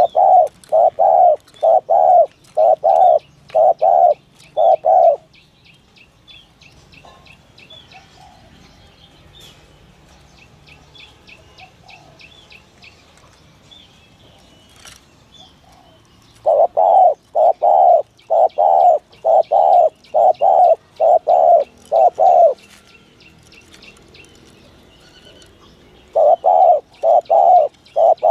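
Spotted dove cooing in bouts of short, evenly repeated coos, about two a second: one bout at the start, a longer one in the middle and another near the end. It is the native-type 'gù' cooing call that dove trappers play as a lure. Faint high chirps of small birds come in the gaps.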